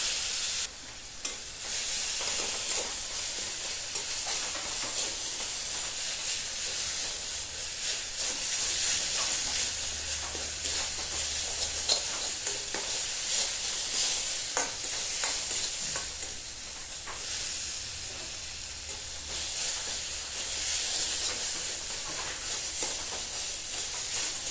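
Mosundori (fish mint) leaves, garlic and green chillies sizzling in mustard oil in a steel kadai over a lowered gas flame, stirred with a metal spoon that scrapes and knocks against the pan again and again.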